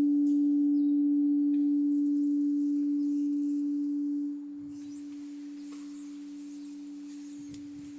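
One long, pure ringing tone that slowly fades, with a sudden drop in level a little over four seconds in, after which it rings on more quietly. It sounds like a sound-healing instrument ringing out during a meditation.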